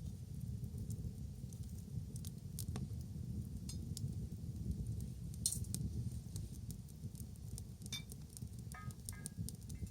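Wood burning in an outdoor bonfire, crackling with scattered sharp pops and snaps over a steady low rumble. One snap about five and a half seconds in is louder than the rest.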